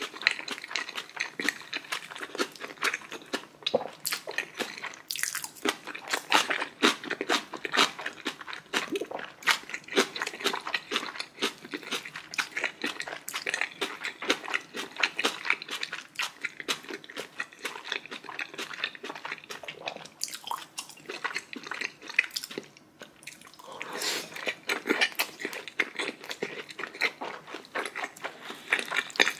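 Close-miked eating sounds: a person biting and chewing food with rapid, irregular crunching and wet mouth clicks, pausing briefly about 23 seconds in.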